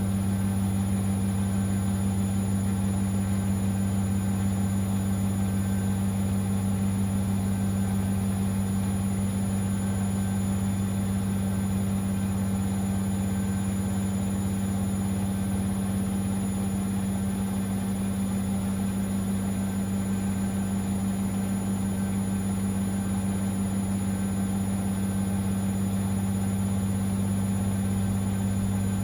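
Siemens Extraklasse XLS 140 A washing machine running mid-cycle with a steady low hum that holds at one pitch and level throughout.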